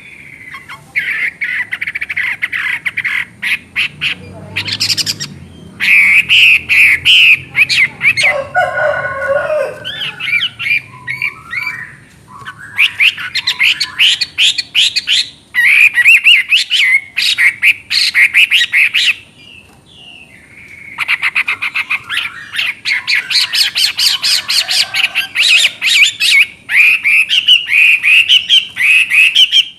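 Chinese hwamei singing long, loud phrases of rapid, varied whistled notes, broken by a few short pauses.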